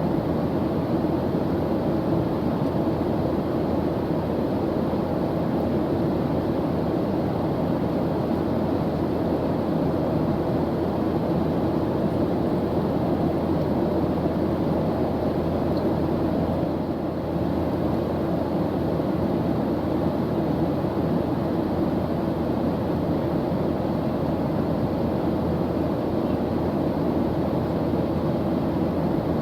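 Steady airliner cabin drone of jet engines and airflow, a deep even rumble with a faint hum in it, with a slight brief dip about two-thirds of the way through.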